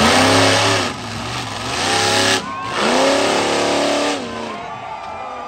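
Monster truck's supercharged, carbureted small-block Chevy V8 revving hard in two long bursts, each rising in pitch, then dropping off near the end.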